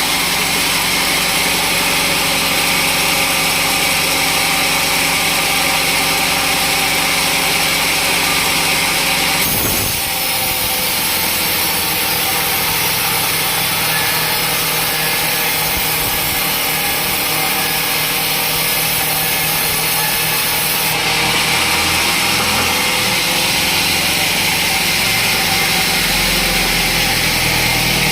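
Sawmill saw cutting through a teak log: a steady machine hum with a loud, high cutting hiss that changes in character about ten seconds in and again about twenty-one seconds in.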